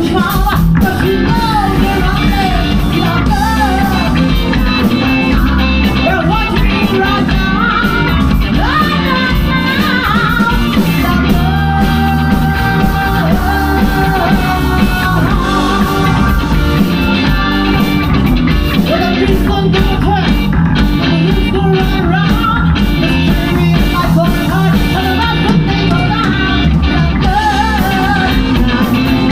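Rock band playing live, loud and steady, with singing over the band.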